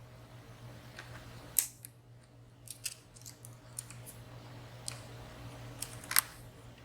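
Lock picks working inside a WSW W10 padlock's keyway: scattered light metallic clicks and ticks as the pins and sliders are manipulated. The clicks are sharpest about a second and a half in and again near the end, over a steady low hum.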